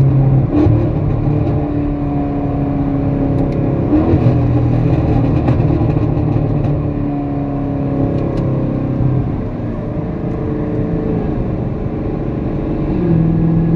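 2019 Camaro SS's 6.2-litre LT1 V8 running with no catalytic converters through the factory active exhaust, giving a loud, steady exhaust note. The engine note holds its pitch and then steps up or down several times as the car drives.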